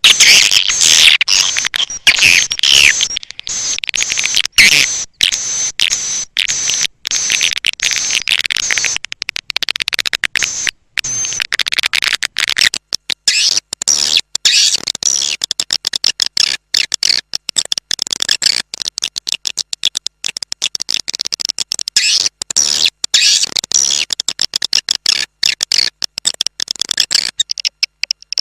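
Recorded swiftlet call sound for luring birds into a nest house: a flock of swiftlets twittering and chattering, high-pitched and dense, broken by many abrupt gaps. About halfway through it turns to rapid, repeated short chirps.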